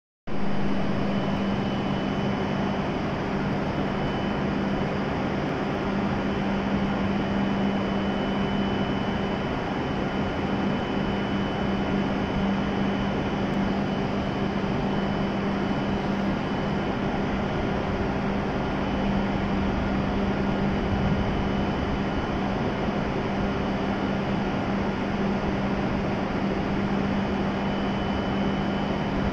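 W7 series Shinkansen standing at the platform, its onboard equipment giving a steady hum: a low drone with a faint high whine over an even rush of air.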